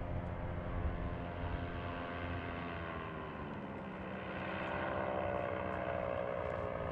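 Paramotor engine and propeller running with a steady drone; about halfway through it gets slightly louder and its pitch slides down.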